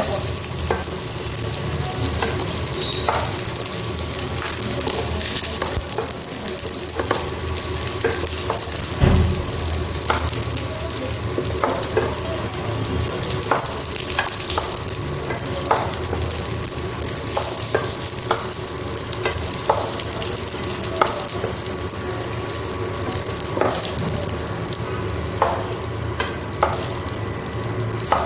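Potato and green jackfruit pieces sizzling steadily in hot oil in a nonstick wok. A spatula clicks and scrapes against the pan every second or so as the fried pieces are lifted out, with one heavier knock about a third of the way in.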